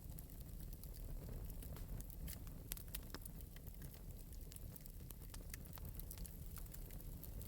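Fire crackling gently in an open metal fireplace: a steady scatter of small, quick pops and snaps over a low, steady rumble.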